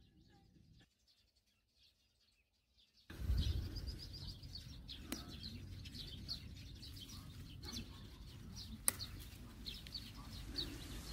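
Near silence for about three seconds, then small birds chirping repeatedly over a steady low rumbling noise, with two sharp clicks in between.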